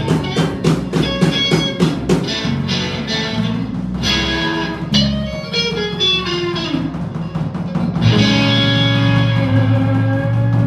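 Electric blues band playing an instrumental passage: electric guitar lines over bass and drum kit, settling about eight seconds in on a long held chord.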